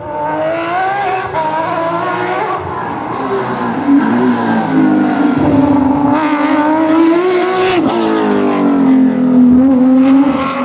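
Porsche 997 GT3 rally car's naturally aspirated flat-six engine at full rally pace, its pitch climbing and falling with gear changes and lifts, with a sharp crack about three-quarters of the way through. It grows louder as the car approaches, and the pitch drops right at the end as it passes.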